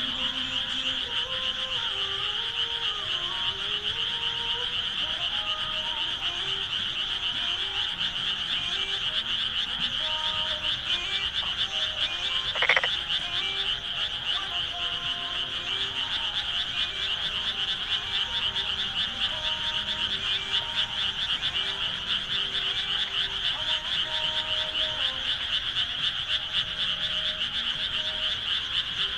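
Chorus of many frogs calling in rice paddies, a dense, continuous trilling. A single brief, sharp sound cuts through the chorus about halfway through.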